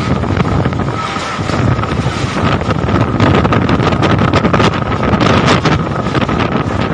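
Strong wind from a whirlwind storm blasting over the microphone in a loud, gusting rush, with a run of short clicks and knocks from about halfway through.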